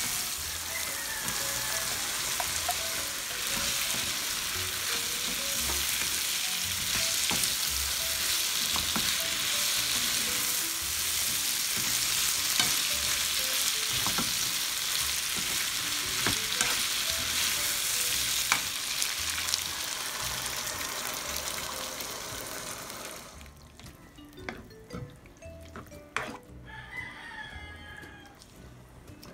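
Chopped garlic, onion and tomato, then pork pieces, sizzling in hot oil in a pan while a spatula stirs them, with scattered clicks of the spatula against the pan. About three-quarters of the way through the sizzle drops away sharply, leaving quieter stirring.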